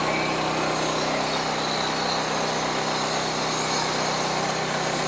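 Sawmill's engine running steadily.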